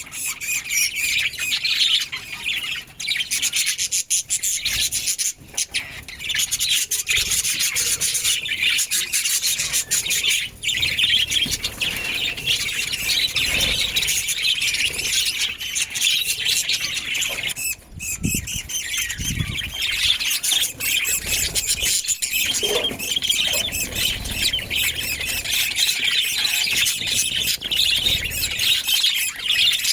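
Budgerigars chattering without pause: a dense stream of high chirps and warbles from several birds.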